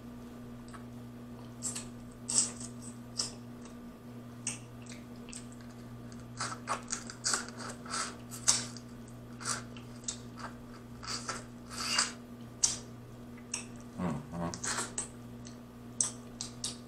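Close-up wet chewing and lip-smacking as sauce-covered snow crab meat is eaten, with irregular mouth clicks and smacks throughout. A brief hummed 'mm' comes about two-thirds of the way in, all over a steady low hum.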